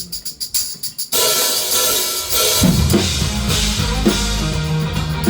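A live band starting a song: about a second of quick, evenly spaced percussion ticks, then the full band comes in loud with a cymbal wash. Bass and kick drum join about two and a half seconds in.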